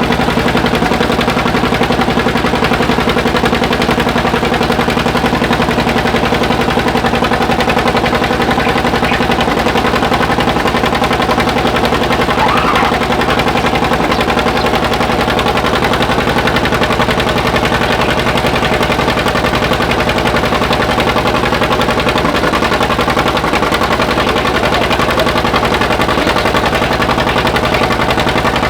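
Tractor engine running loud and steady with a rapid, even popping from its exhaust.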